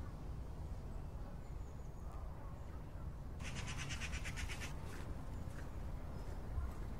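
A bird gives one rapid rattling call, about a second long and a little over three seconds in, over a steady low outdoor rumble; a few faint chirps follow near the end.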